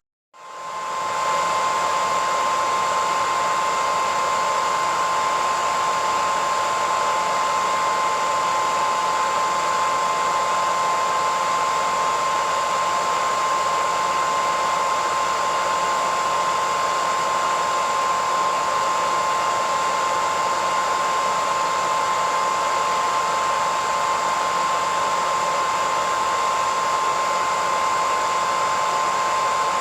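Hair dryer running steadily: an even rush of blown air with a steady whine from the motor. It cuts out for a split second right at the start, then swells back to full within about a second.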